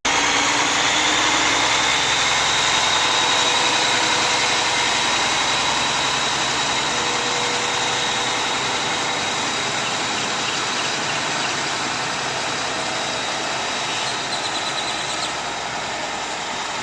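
Mack RD dump truck's diesel engine running steadily, with a thin high whine over the engine noise, easing off slightly toward the end.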